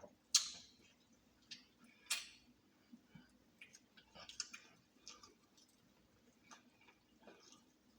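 Close-up eating of fried chicken: crunching bites and wet mouth clicks while chewing the meat off a thigh bone, with two sharper, louder crunches about half a second and two seconds in.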